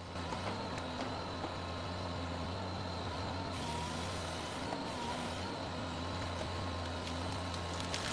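Forestry harvester's engine running steadily, with a faint high-pitched whine over the hum.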